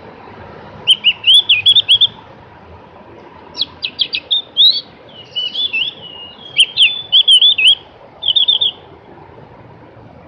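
Javan grey-throated white-eye (opior jawa) singing: four or five quick phrases of fast up-and-down whistled notes with short gaps between them, over a steady background hiss.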